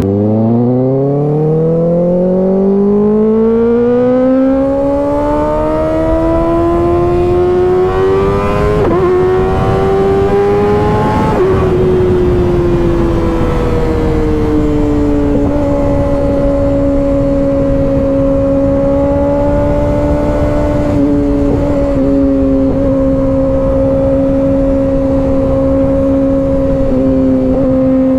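Kawasaki ZX-6R 636's inline-four engine accelerating, its pitch rising steadily for about ten seconds, then easing back and holding a steady cruising pitch, over road and wind noise.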